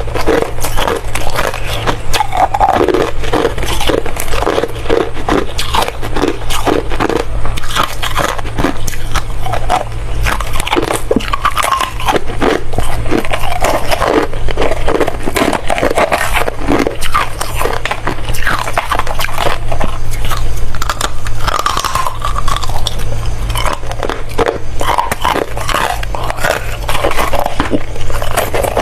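Ice being bitten and chewed close to the microphone: continuous loud, crisp crunching and cracking, many bites in a row, over a steady low hum.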